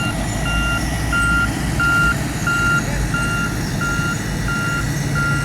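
Reversing alarm on heavy construction machinery beeping steadily, about three beeps every two seconds, over the low rumble of a heavy engine running.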